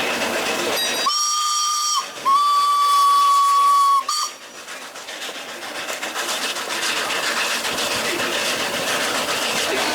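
Narrow-gauge steam locomotive's whistle blowing one steady high note: a short blast about a second in, a longer blast of nearly two seconds, then a brief toot. A steady hissing, rushing noise of the moving train runs underneath.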